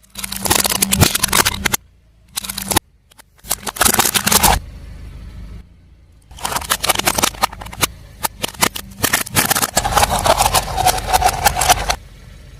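Crunchy objects crackling and snapping under a car tyre, with the car's engine running low underneath. The crushing comes in several separately cut bursts: three short ones in the first few seconds, then a longer stretch of about six seconds.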